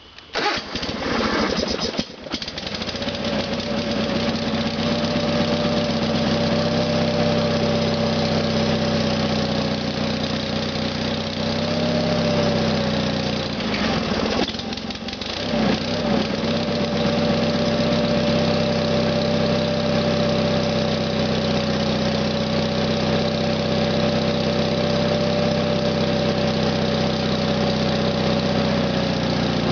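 Sears Suburban GT/19.9 garden tractor's Onan engine cold-starting on choke at half throttle in freezing weather: it cranks and catches within the first two seconds, then runs steadily. About halfway through it briefly dips and changes speed before settling back into steady running.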